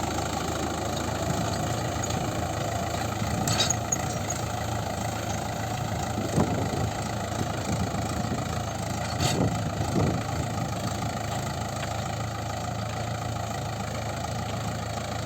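Tractor engine running steadily at a constant pace during inter-row cultivation, with a couple of brief sharp knocks about a third of the way in and again past the middle.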